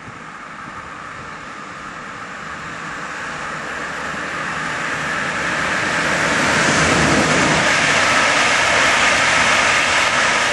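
Electric locomotive-hauled InterCity train approaching and passing close by at speed: a rushing rumble of wheels on rail that builds steadily and is loudest over the last few seconds, with a faint steady whine.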